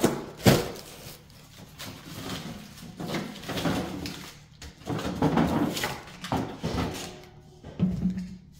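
Items being taken out of a home freezer by hand: irregular rustling and scraping of packages, with knocks as things are moved and set down, the sharpest about half a second in.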